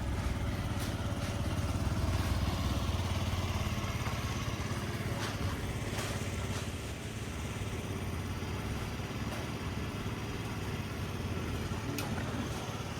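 Steady low hum from a stationary 260-series narrow-gauge electric train standing at the platform, with a few faint clicks.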